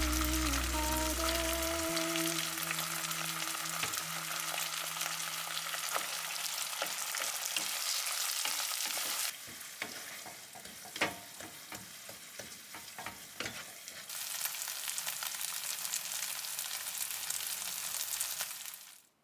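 Onions and cut tomato frying in oil in a non-stick pot, a dense crackling sizzle, with a wooden spatula scraping and clicking against the pot as it is stirred. The sizzle drops for about five seconds in the middle, leaving mostly spatula clicks and one sharp knock, then comes back.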